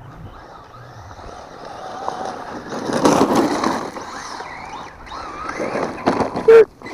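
Traxxas Ford Fiesta ST VXL RC rally car driving on 6S: its brushless motor whines up and down over the noise of the tyres on the ground, getting louder toward the middle as it passes close. A short, sharp, loud sound comes near the end.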